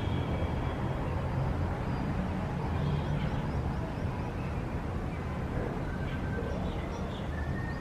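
City street ambience: a steady low rumble of traffic, with short high bird chirps now and then.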